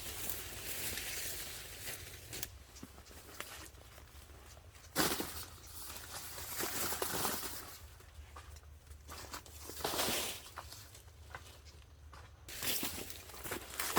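Dry corn leaves and husks rustling and tearing in irregular bursts, with a sharp crack about five seconds in.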